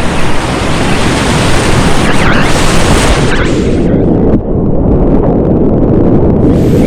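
Whitewater rapids rushing loudly, a steady roar of water with wind buffeting the microphone. From about four seconds in, the high end drops away for a couple of seconds and the roar turns muffled.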